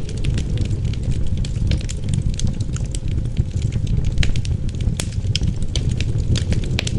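Wood fire crackling in a fireplace, with frequent irregular sharp pops and snaps, over a steady low rumble of wind.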